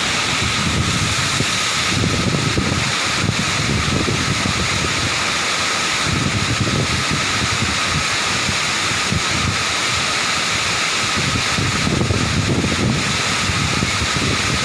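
Steady rushing of a waterfall, with strong wind buffeting the microphone in uneven low rumbling gusts.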